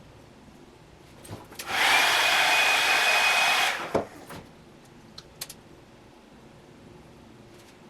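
A hiss of about two seconds with a thin steady whistle in it, starting and stopping abruptly, followed by a sharp click and a few light ticks.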